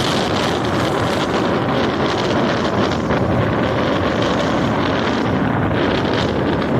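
Rough sea surf washing on the shore under strong wind, with wind buffeting the microphone; a steady, loud rush of noise.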